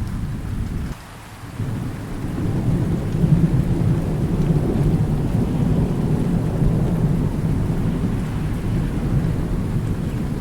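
Thunder rumbling low and long under steady rain. The sound drops away for about half a second roughly a second in, then the rumble swells again and carries on.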